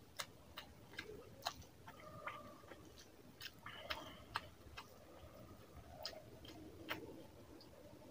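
Quiet, wet chewing of a mouthful of rice and chicken curry, with scattered sharp mouth clicks and smacks, while fingers squish and mix rice with curry gravy on the plate.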